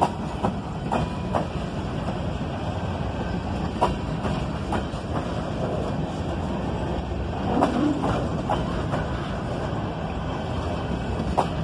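Cars of a CSX coal train rolling past on the rails: a steady rumble of wheels on track, broken by occasional sharp clanks and clicks at irregular intervals.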